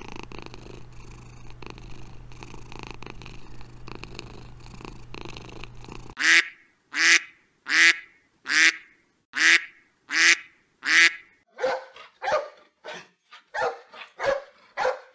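A cat purring steadily for about six seconds, then a run of about sixteen short, evenly spaced animal cries: the first seven loud and high, the later ones shorter and lower.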